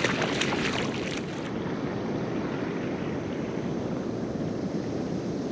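Steady rush of ocean surf, with wind on the microphone; a few splashes in the first second and a half.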